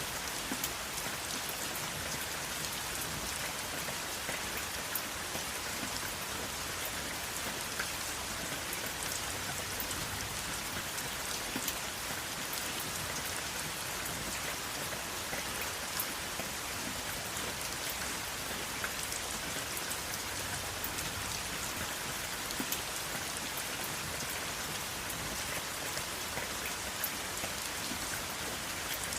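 Steady rainfall, an even hiss of rain with many small drop ticks landing on a surface, without thunder.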